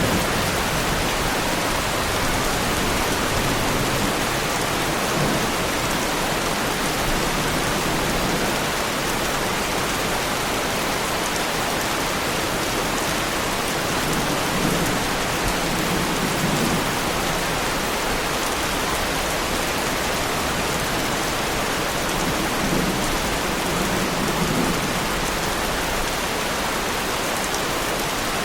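Heavy rain falling steadily on a car, a dense, even hiss of drops that holds at the same loudness throughout.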